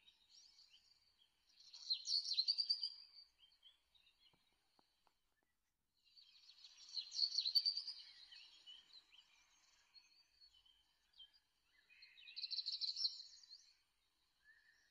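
Bird chirping in three bursts of rapid, high-pitched trilled notes, each a couple of seconds long, with quiet between them.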